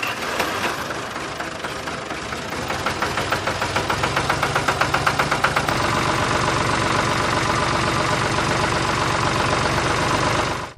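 Small engine running with a rapid knocking beat, several pulses a second, that grows louder over a few seconds, then settles into a steady drone about halfway through; it cuts off abruptly at the end.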